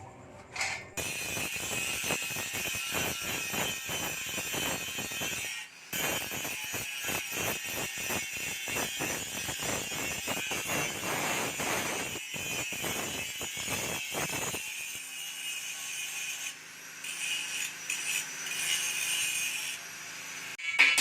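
Rapid rasping strokes of a tool working a surface, like sawing or sanding, with a short break about six seconds in. After about fifteen seconds it gives way to quieter, intermittent scraping.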